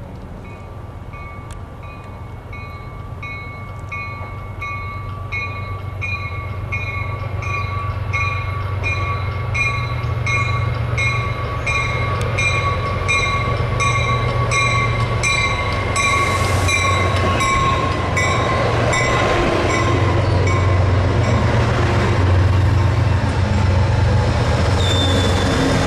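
Diesel-hauled passenger train approaching and passing close by, its engine rumble and wheel noise growing steadily louder. A bell rings in a steady repeating rhythm through the first half.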